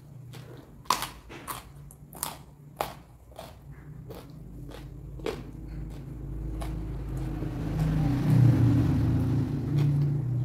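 Close-up crunching bites and chewing of raw vegetables, sharp crunches spaced a fraction of a second apart. From about four seconds in a low rumble swells up and is loudest near the end, drowning the chewing.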